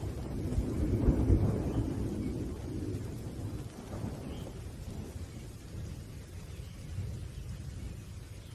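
Low rolling thunder rumbling, loudest about a second in and then slowly dying away, with rain hissing faintly underneath.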